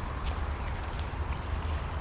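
Footsteps of someone walking along a park path, several steps in quick succession over a steady low rumble.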